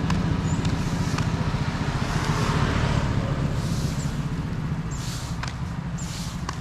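A road vehicle's engine running close by and slowly fading away, over street noise with a few scattered clicks.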